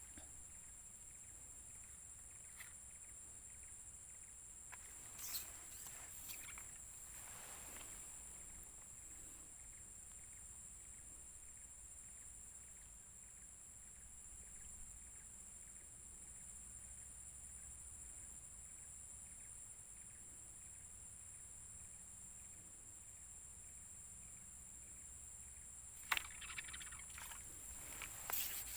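Faint swamp ambience: a steady high-pitched insect drone, with a few soft rustles and clicks. Louder clicking and rustling of handling comes near the end.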